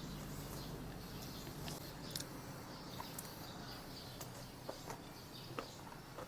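Faint birds chirping now and then, short high calls scattered over a steady low background hum.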